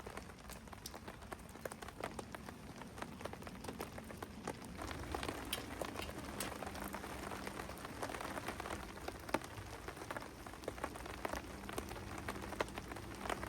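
Steady rain falling, with many separate sharp drop hits through it.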